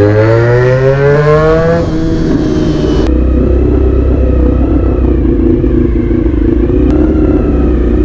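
Honda VFR400 NC30's V4 engine through a GP exhaust, rising steadily in pitch for about two seconds as it pulls. It then settles into a steady, lower drone for the rest.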